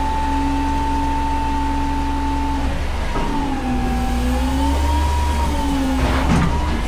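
Front-load garbage truck's engine held at high revs to drive the hydraulic lift, its pitch sagging and recovering as the load changes. A short clatter comes about six seconds in.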